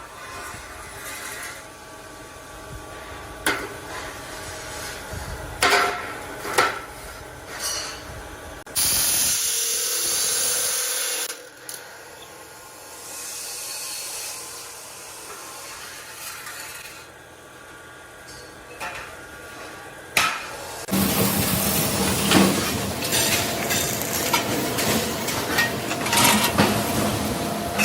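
Metalworking workshop noise: scattered metal knocks and clanks, a loud hiss lasting a couple of seconds near the one-third mark, then a denser, louder stretch in the last quarter with a steady hum under frequent impacts.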